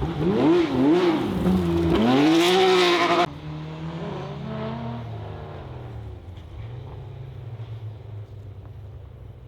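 Rally car engine revving hard, its pitch rising and falling sharply through throttle blips and gear changes for about three seconds. It then cuts off abruptly to a quieter, steadier engine note.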